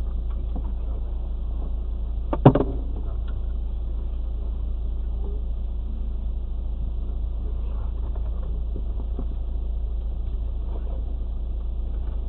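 Car standing still with its engine idling, a steady low rumble heard from inside the cabin. A single sharp click sounds about two and a half seconds in.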